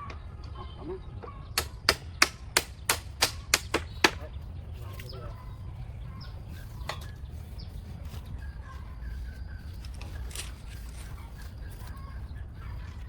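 A quick run of about nine sharp knocks, roughly three a second, of a tool striking during building work, starting about a second and a half in and stopping after two and a half seconds.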